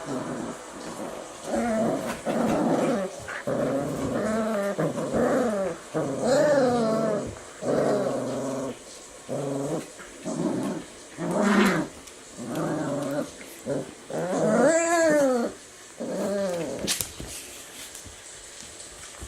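Four-week-old Eurasier puppies vocalizing in a string of short, pitched growls and whines, with a longer whine that rises and falls about fifteen seconds in. The calls stop a couple of seconds before the end.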